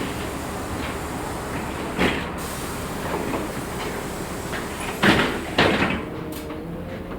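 Ride noise inside a moving LiAZ-6213.65 articulated city bus: a steady rumble of engine and road, broken by a sharp clack about two seconds in and two louder rattling knocks a little after five seconds, as fittings jolt. A faint whine comes in near the end.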